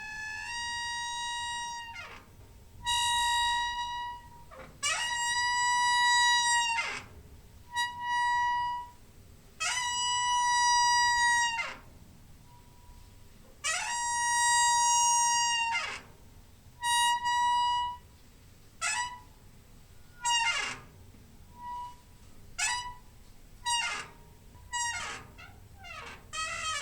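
Door hinge squeaking: a series of drawn-out, high-pitched creaks, each held for one to two seconds and often sliding in pitch as it starts or stops. After about 18 seconds they turn into shorter squeaks, roughly one a second.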